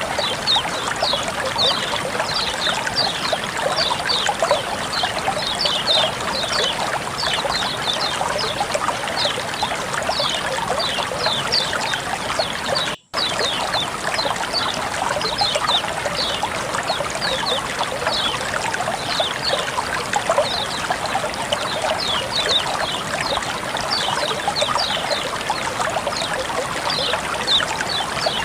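Water flowing and trickling steadily, with many short, high, falling chirps running over it. The sound cuts out briefly about 13 seconds in.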